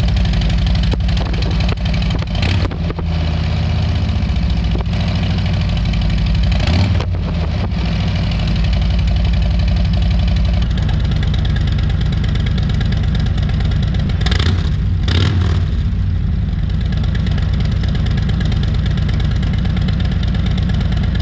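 Harley-Davidson Milwaukee-Eight 114 V-twin running through Vance and Hines Eliminator 400 slip-on mufflers, with stock head pipes and no tune: a steady idle broken by several quick throttle blips.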